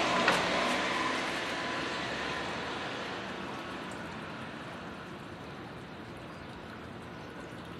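Kintetsu electric train running past on the rails, its noise fading steadily as it moves away, with a sharp wheel clack just after the start.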